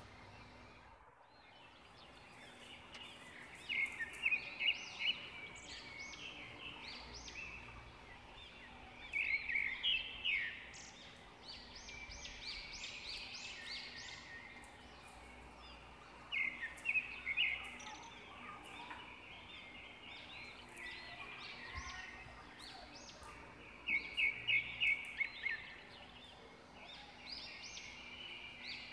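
Birds calling: a loud, rapid run of chirps comes four times, roughly every seven seconds, with softer scattered chirping between.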